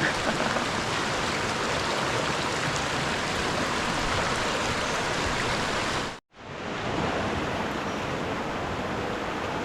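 Mountain river rushing, a steady even roar of flowing water. About six seconds in it cuts out for a moment and comes back slightly duller.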